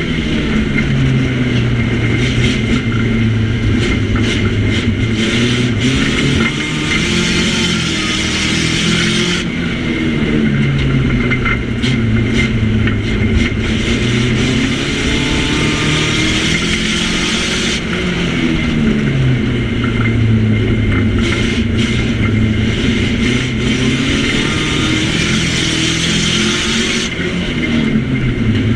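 Nissan Micra banger's engine heard from inside the stripped cabin, revving up and falling back again and again, with scattered knocks and rattles.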